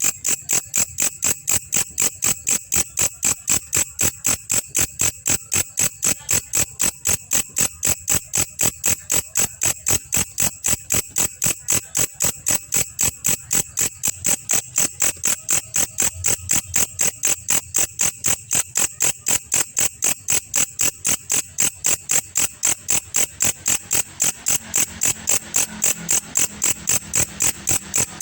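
Belalang kecek, a singing insect, chirping in a steady, even series of sharp, high clicks at about three to four a second.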